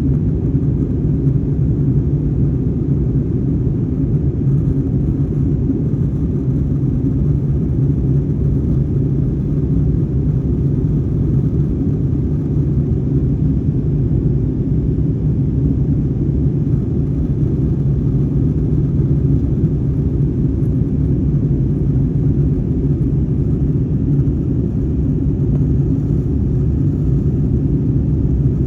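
Steady low rumble of an airliner cabin: jet engines and airflow, with a constant hum and no change in pitch or level.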